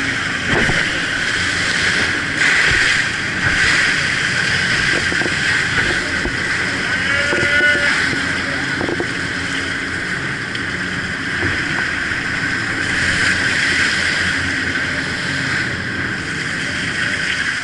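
Jet boat running at speed on the river, a steady loud rush of engine and water.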